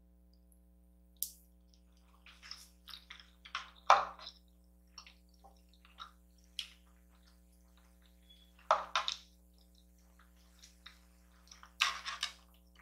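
A person eating close to the microphone: irregular wet chewing, squishing and slurping mouth sounds, a few louder ones standing out, over a faint steady hum.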